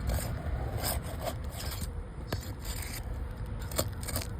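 Brittle asphalt roof shingle being lifted and prised off its seal, scraping and rubbing, with a few short crackles as the shingle tears. The tearing under a gentle lift is the sign that the shingle is too brittle to be repaired.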